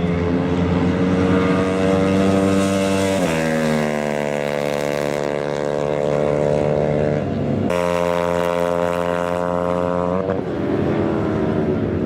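Racing motorcycle engine accelerating hard. The pitch climbs, then drops sharply three times, about 3, 7 and 10 seconds in, as the rider shifts up a gear, and after each shift the pitch climbs again.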